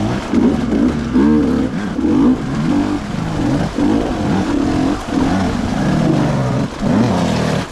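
Two-stroke enduro motorcycle engine revved up and down over and over, its pitch rising and falling about once a second as the throttle is worked on and off.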